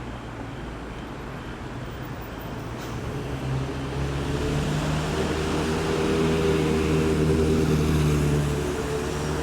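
Road traffic, with a large vehicle's engine growing louder from about three seconds in as it draws near, loudest in the last few seconds.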